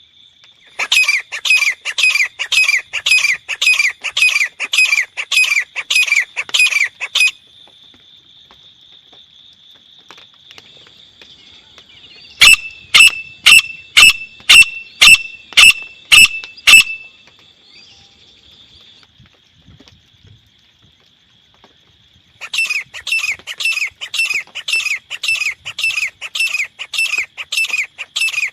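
Grey francolin (teetar) calling: two long bouts of rapid repeated call notes, about two a second, with a run of about ten sharp, clipped notes between them.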